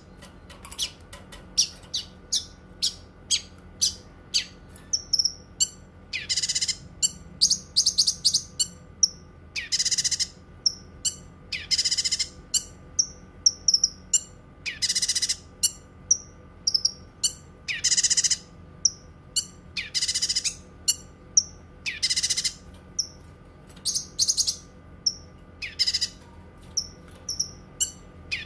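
Cucak kinoi songbird singing: a fast run of short high chirps broken about every two seconds by longer, louder, rasping high phrases.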